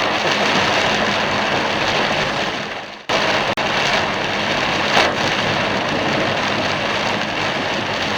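Heavy rain pelting a moving car, with tyres hissing through water on the road. About three seconds in, the sound fades and cuts out briefly, then returns abruptly.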